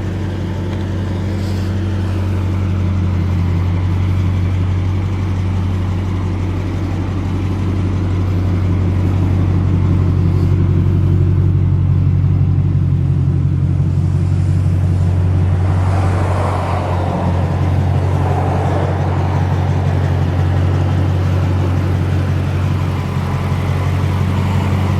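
A 2011 Dodge Challenger R/T's 5.7-litre Hemi V8 running steadily at idle through a custom exhaust, with a brief rushing noise about two-thirds of the way through.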